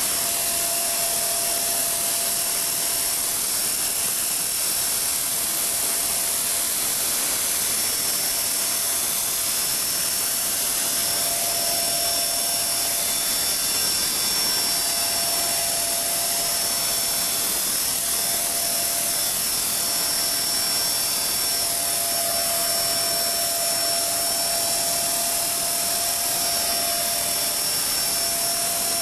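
E-Sky King RC helicopter's electric motor and rotor running steadily, a constant whine of two fixed tones over rotor hiss, just after spooling up.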